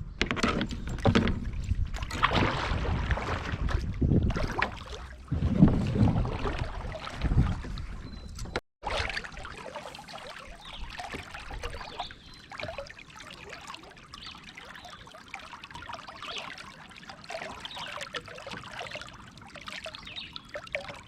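Kayak hull and paddle knocking, bumping and scraping as the boat is worked through a tight, shallow stretch of river, loud and irregular. After a sudden cut about nine seconds in, quieter running river water trickles and crackles.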